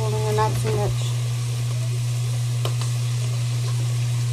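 Food sizzling in a frying pan over a steady low hum, with a few faint clicks. A short voice sounds in the first second.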